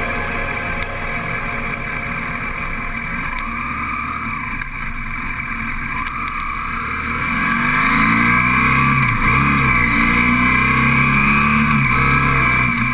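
BMW F800S motorcycle's parallel-twin engine running under way. It grows louder about two-thirds of the way through, its pitch rising and falling as the revs change.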